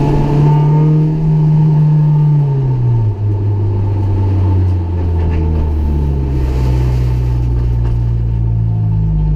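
Honda Civic EG6 SiR's B16A four-cylinder engine heard from inside the cabin, holding steady revs, then dropping sharply in pitch about three seconds in and running on at lower, steady revs.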